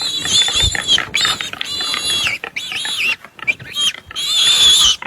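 Warthog piglet squealing in distress as it is held in a leopard's jaws: a run of about five loud, high-pitched squeals with short breaks between them.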